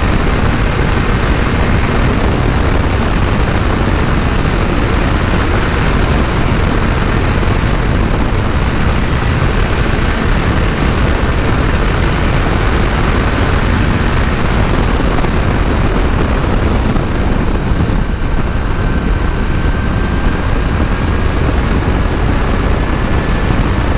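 Kawasaki Z900's inline-four engine running steadily at cruising speed under heavy wind rush on the rider's microphone. A faint whine climbs slightly in pitch in the last few seconds.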